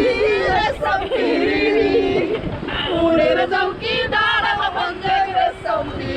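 A group of voices singing together in held, wavering notes.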